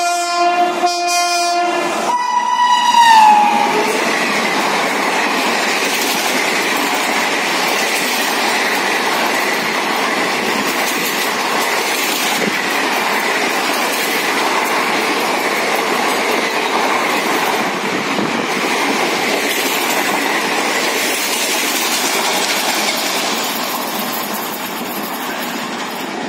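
WAP5 electric locomotive's horn sounding as it approaches, its pitch dropping as the engine passes about two to three seconds in. Then the express coaches rush past at speed with steady wheel clatter, easing off in the last few seconds as the train draws away.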